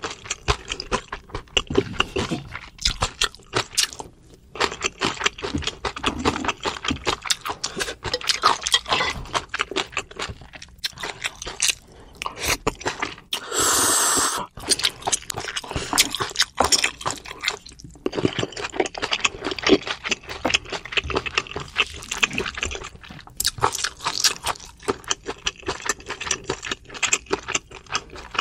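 Close-up eating sounds: chewing spicy noodles with raw vegetables, a dense run of quick, sharp crunches and wet mouth clicks. About halfway through comes one loud slurp from a spoon, lasting about a second.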